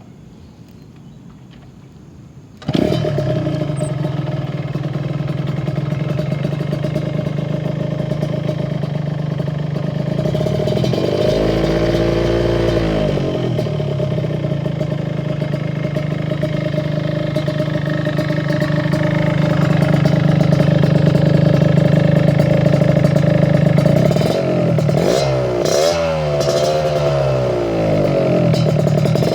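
Yamaha RX-King's two-stroke single-cylinder engine through an HNR aftermarket exhaust, coming in suddenly about three seconds in and idling. It is revved once near the middle and blipped several times near the end.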